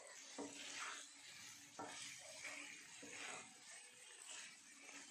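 Chicken in masala gravy sizzling faintly on a non-stick tawa just after a splash of water, with a spatula scraping and stirring it in about four strokes.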